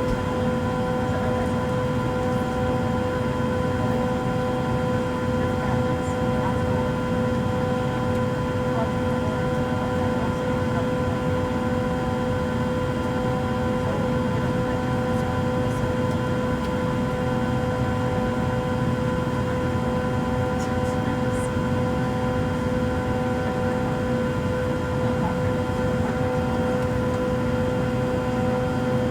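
Steady drone inside an airliner cabin, the jet engines and air system running, with several constant tones over a rushing noise and one tone that keeps coming and going.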